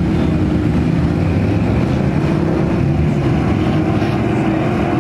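Car engine running at steady revs, with wind buffeting the microphone.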